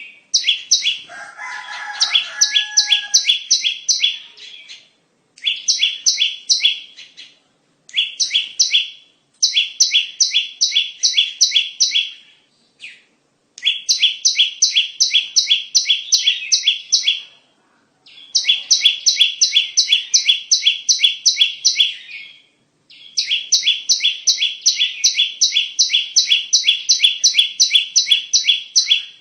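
Bar-winged prinia (ciblek) calls played as a bird-luring recording: sharp high chirps repeated about four a second, in runs of a few seconds broken by short pauses. About a second in, a lower call sounds briefly underneath.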